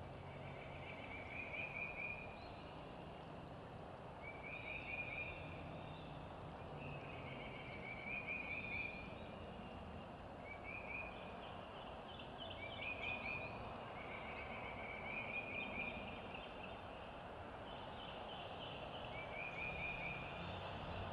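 A wild animal's trilling call, each trill about a second long, repeated every two seconds or so over a steady outdoor background hiss.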